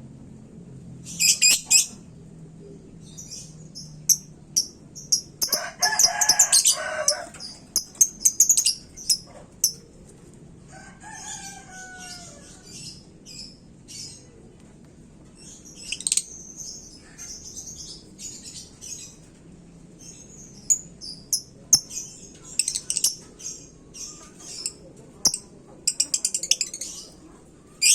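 Lovebird chattering in bursts of rapid, very high-pitched chirps and trills, stopping and starting. About six seconds in, a lower, longer call with several tones lasts about a second and a half, and a short gliding call follows near twelve seconds.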